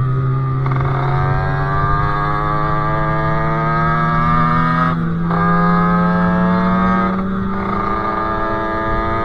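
A 50cc two-stroke Sherco moped with a KRM expansion exhaust and a Polini CP 17.5 carburettor, running under way. Its note climbs steadily, with short breaks about a second, five seconds and seven seconds in.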